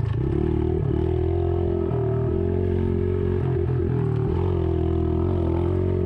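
Yamaha TT-R110's small air-cooled four-stroke single-cylinder engine running at fairly steady revs, dipping briefly and picking up again a couple of times.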